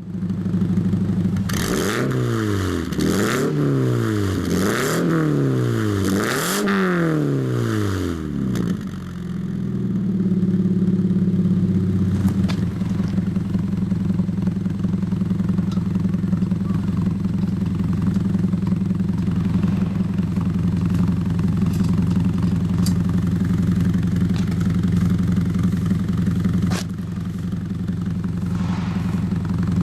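Exhaust of a Toyota 86 / Subaru BRZ's 2.0-litre flat-four engine through an iConcept straight-through rear muffler. It is revved four times in quick succession, then settles to a steady idle.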